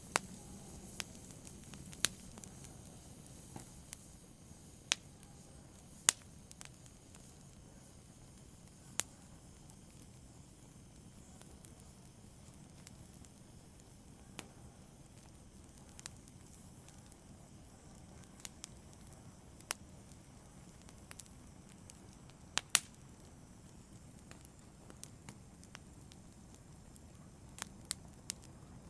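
Wood fire burning in a fireplace: irregular sharp crackles and pops, a few loud ones spaced several seconds apart, over a faint steady hiss of the flames.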